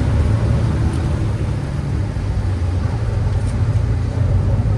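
Boat engine running with a steady low rumble over the canal water.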